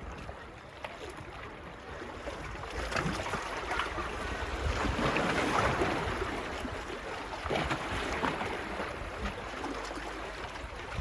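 Small sea waves washing onto a beach, building up and peaking midway before easing off, with wind rumbling on the microphone.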